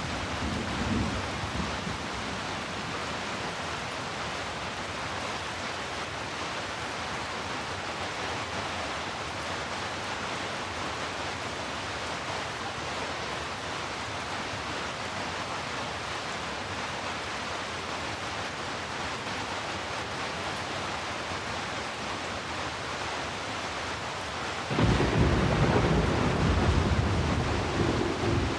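Heavy rain, a steady dense hiss of rainfall. A deep low rumble fades out in the first second or two, and another starts suddenly near the end, much louder than the rain.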